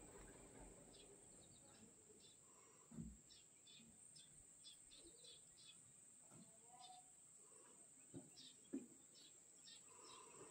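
Near silence, with faint bird chirps in the background, a steady faint high hiss, and a few soft low thumps about three seconds in and near the end.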